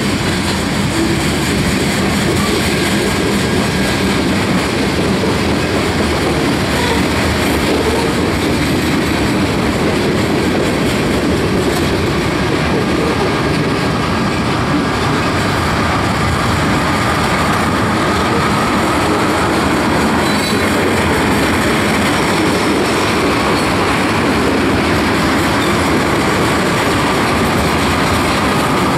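Union Pacific freight train's covered hoppers and tank cars rolling past: a steady, loud rolling noise of steel wheels on the rails, with a faint wheel squeal rising slightly in pitch through the second half.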